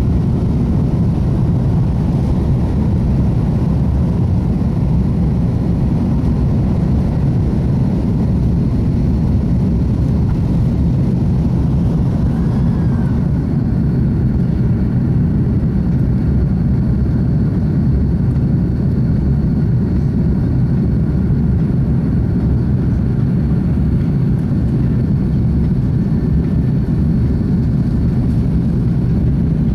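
Steady, loud engine and airflow noise heard inside an airliner's cabin as it takes off or climbs, a low even rumble with no change in level.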